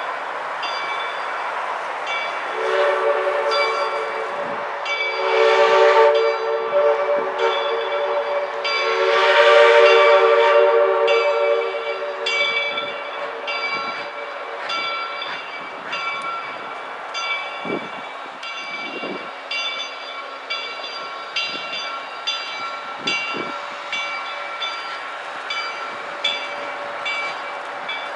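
A train passing, its horn sounding a chord in long blasts that swell twice and stop about halfway through. Wheels click over the rail joints throughout.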